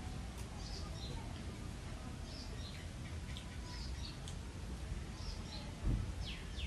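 Faint chirps of small birds, scattered high calls over a low steady background rumble, with a single soft thump just before the end.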